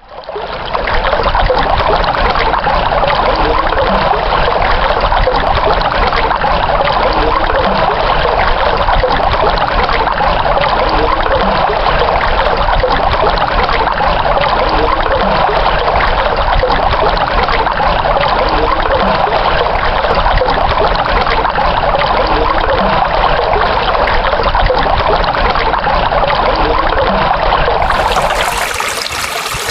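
Flowing water running steadily with a constant rushing sound, like a stream. Near the end it cuts to a different, slightly softer stretch of water.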